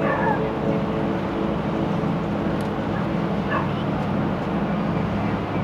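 Boat engine running steadily with a low, even hum. Two short high yelps break in, one at the very start and one about three and a half seconds in.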